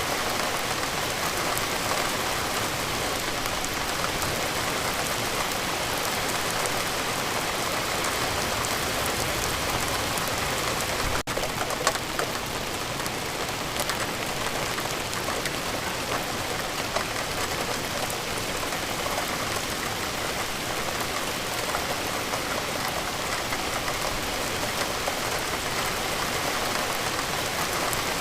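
Steady rain falling, with scattered sharp drop hits through the even hiss. The sound breaks off for an instant about eleven seconds in, then carries on unchanged.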